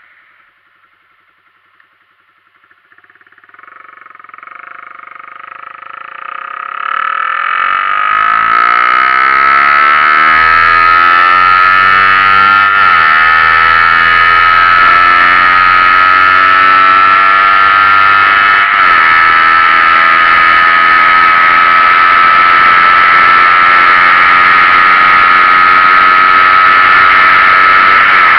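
Yamaha Sniper 150 single-cylinder four-stroke engine, running on a stock engine with a Tuneboss aftermarket ECU, accelerating hard on the road. It starts faint, rises in pitch and loudness over several seconds, then holds a loud steady note, with two brief dips in pitch where it changes gear.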